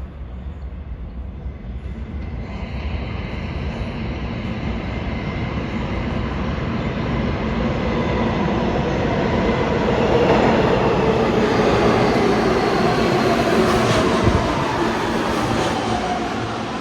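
New York City subway train entering the station, its rumble building to a peak and then easing. Near the end a whine falls in pitch as the train slows.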